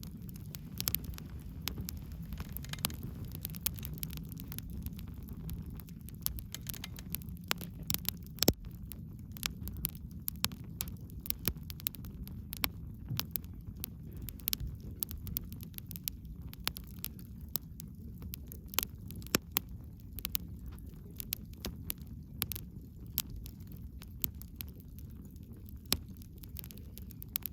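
Wood bonfire burning: a steady low rumble of flames with irregular sharp crackles and pops of the burning wood, several a second, a few louder pops standing out.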